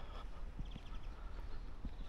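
A few soft footsteps over a steady low outdoor rumble, with a brief run of faint high chirps about half a second in.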